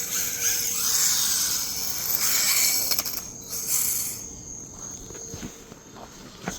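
RC rally car driving on a dirt track: a loud, uneven high whir from its motor and spinning tyres that fades away after about four seconds.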